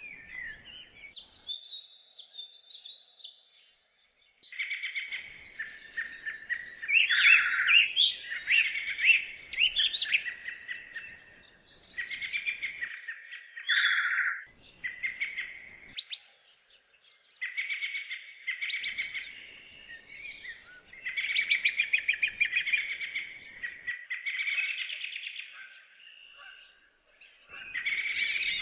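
Songbird singing: long phrases of rapid chirps and trills, broken by short pauses.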